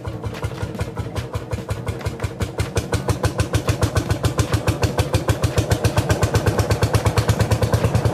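Tractor engine running with an even putt-putt of about ten beats a second, getting louder about three seconds in.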